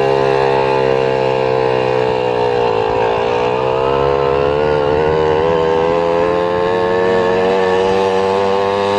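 Engine of the vehicle being driven, running at steady revs as a loud, even drone. Its pitch dips briefly about three seconds in, then holds and climbs slowly.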